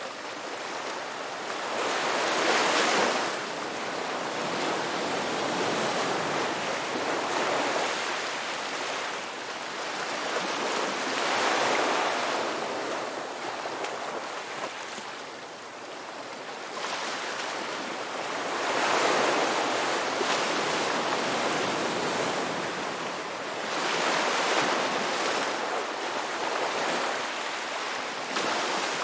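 Sea waves breaking on a shore: a steady wash with four waves surging in and ebbing away, several seconds apart.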